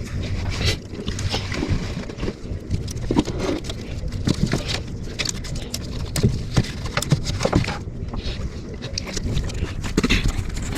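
Irregular clicks and clanks of hand tools on the engine over a steady low rumble.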